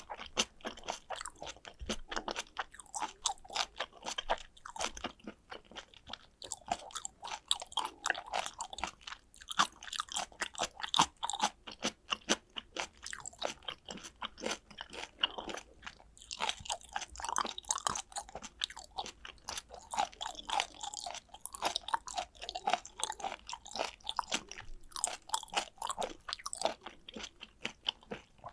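Chewing of raw tuna sashimi (fatty belly cuts): a dense run of small mouth clicks and crunches, with short pauses about six and sixteen seconds in.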